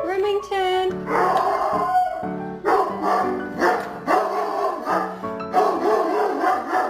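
A dog barking and yipping repeatedly over background music.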